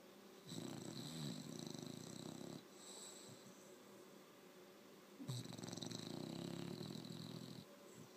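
Seven-month-old bulldog snoring in its sleep: two long snores of about two seconds each, about five seconds apart, with quieter breathing between.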